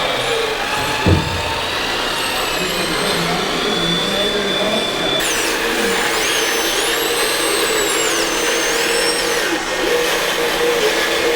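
Several radio-controlled model construction machines working, their small electric motors whining and rising and falling in pitch as they drive and move, with a single knock about a second in.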